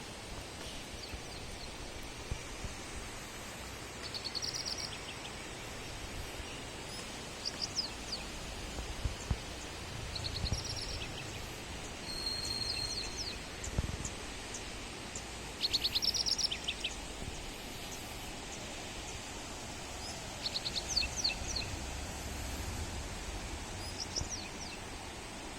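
Birds calling in short bursts of quick high chirps every few seconds over a steady outdoor hiss, with occasional low rumbles.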